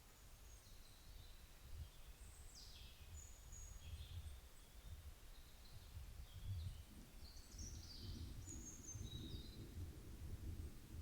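Faint birdsong: scattered short chirps and whistles, with quick downward-sliding notes about two and a half seconds in and again near eight seconds, over a low rumble.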